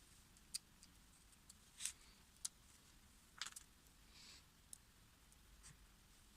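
Near silence broken by a handful of faint, sharp clicks and a few brief scrapes, spaced a second or so apart; no engine running.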